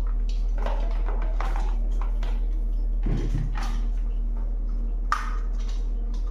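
Scattered rustles and clicks of objects being handled, with a low thump about three seconds in and a sharp click near the end, over a steady low hum.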